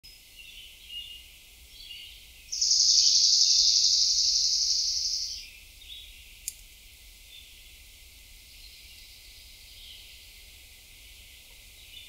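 Small birds chirping, with one songbird giving a loud, even, high trill lasting about three seconds a couple of seconds in. A single sharp click follows a second later.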